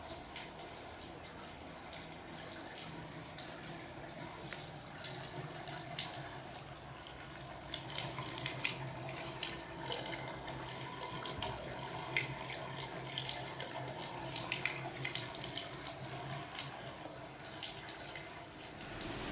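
Water pouring and splashing steadily, with many small scattered splashes, over a steady high-pitched drone of insects.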